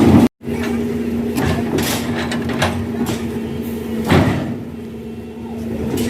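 A heavy vehicle's engine running with a steady hum, with several short metallic knocks and clanks, the loudest about four seconds in. The sound drops out briefly just after the start.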